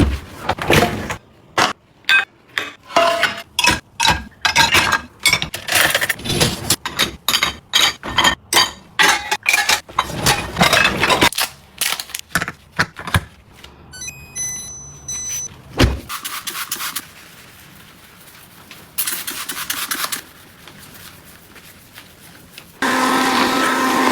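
Household items being handled and put away: a quick run of clicks, taps and rustles, then quieter shuffling with two short hissing noises. Music starts near the end.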